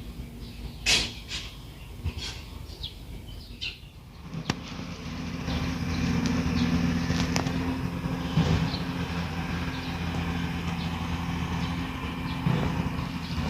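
A few short bird chirps, one louder about a second in. Then, about four seconds in, an engine starts a steady low hum that keeps running.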